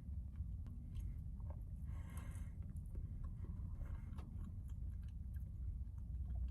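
Heavy rain on the camper van's roof, heard from inside the cabin as a steady low rumble with scattered light ticks and clicks.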